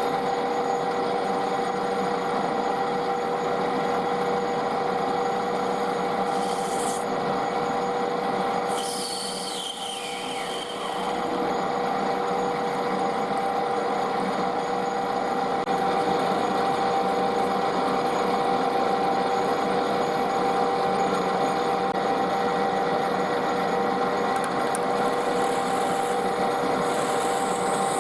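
Metal lathe running with a steady whine while the end of a brass bar is machined, the tool scraping on the metal. About nine seconds in the sound dips briefly, with a short falling whine.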